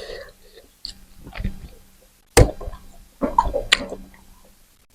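Close-miked eating sounds: wet chewing and mouth noises with a few irregular sharp clicks, the loudest about halfway through.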